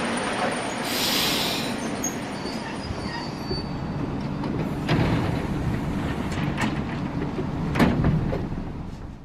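Train running along the track: a steady rumble of wheels on rail, a brief high wheel squeal, then a few sharp clicks over rail joints. It fades out at the very end.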